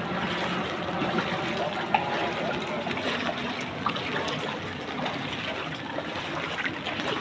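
Floodwater trickling and splashing steadily, with a few small knocks.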